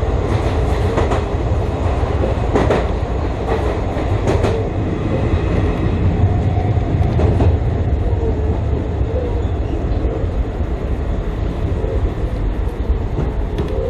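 Chichibu Railway 5000 series train running, a steady wheel-on-rail rumble with a few sharp clicks from the track in the first few seconds. The train is running on newly laid 50kgN heavy rail that replaced the old 37 kg rail.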